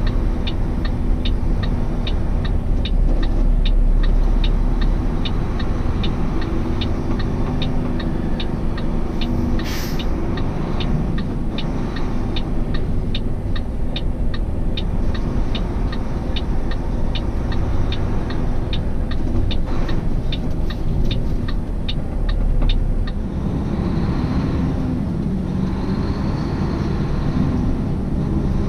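Inside a semi truck's cab with the diesel engine running, the turn signal clicks steadily about twice a second, stopping a little over twenty seconds in. A short hiss of air comes about ten seconds in.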